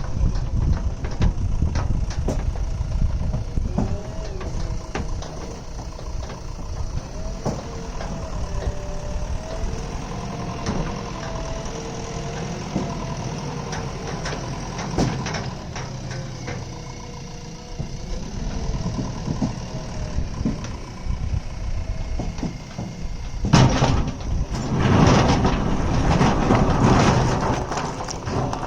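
JCB digger's diesel engine running as the machine works, with scattered knocks and clanks. It gets louder and rougher near the end.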